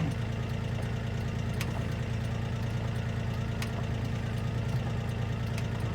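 Kioti NX4510 tractor's diesel engine idling steadily, with a faint tick about every two seconds.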